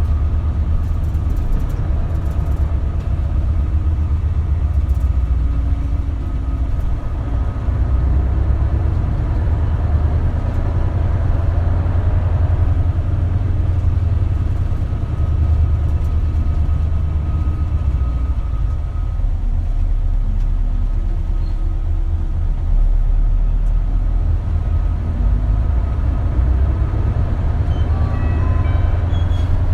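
Isuzu Erga city bus (KL-LV280L1) heard from inside while under way: a steady low diesel engine and road rumble, with the engine note rising and falling several times as it pulls away and changes gear.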